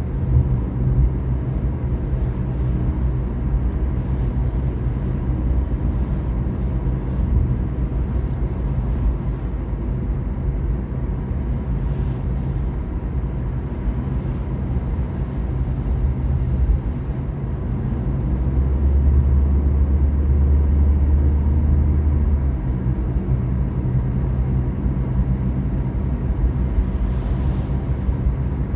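Car cabin noise while driving: a steady low rumble of engine and tyres on the road. A deeper rumble swells for a few seconds past the middle.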